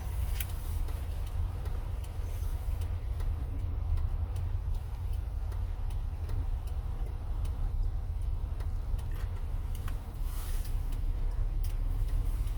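Motorhome driving on the road, heard from inside the cab: a steady low rumble of engine and road noise, with light ticking clicks every second or so.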